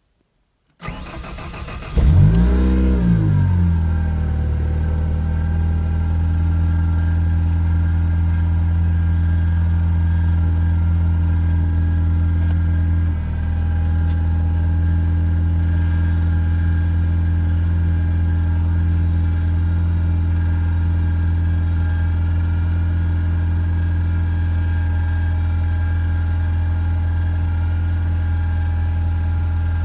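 Ford 2.0 EcoBoost turbocharged four-cylinder cold-starting: the starter cranks for about a second, the engine catches with a brief rev flare, then settles into a steady, even idle with one brief dip partway through. The idle is clean with no misfire, which the owner puts down to cleaning the carbon off the intake valves.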